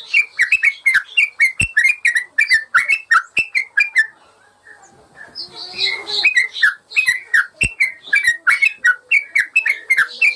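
Yellow-vented bulbul (trucukan) singing a fast run of short chirping notes, several a second. It pauses about four seconds in and resumes a second and a half later. Two soft knocks are heard in between.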